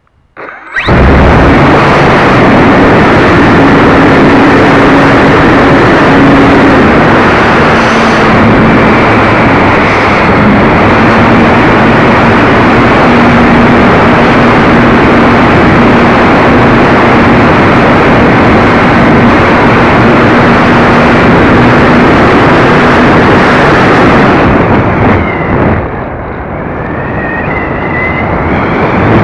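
Loud, steady rushing wind noise on the keychain camera's microphone aboard an RC Walrus glider in flight, with a faint low steady hum underneath. The noise eases about 25 seconds in, and a rising whine comes in near the end.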